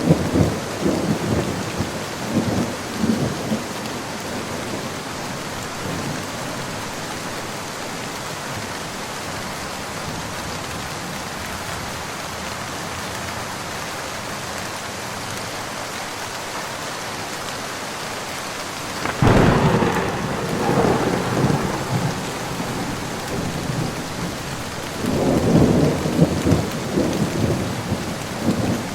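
Steady rain falling, with thunder rumbling over it. A rumble dies away in the first few seconds, a sudden loud crack of thunder comes about two-thirds of the way through and rolls on for a few seconds, and another rumble builds near the end.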